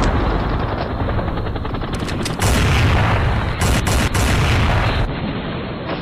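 Gunfire sound effects: rapid machine-gun fire that gets louder about two and a half seconds in.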